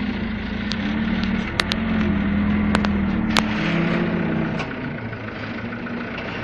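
Diesel engine of a Mitsubishi Canter truck laden with sand, running with a wavering pitch, with scattered sharp clicks over it. The engine note drops away about four and a half seconds in.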